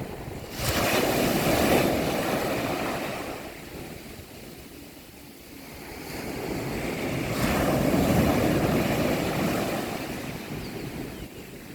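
Mediterranean Sea waves breaking on a beach. One wave crashes sharply about half a second in and washes out over several seconds, then a second wave builds more slowly, breaks and fades near the end.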